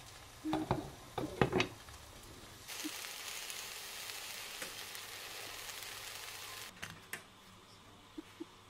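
A glass pot lid clatters and clinks onto a metal saucepan in the first two seconds. Then aubergine slices sizzle steadily in a frying pan for about four seconds before the sound cuts off suddenly, followed by two light taps near the end as a wooden spatula touches a plate.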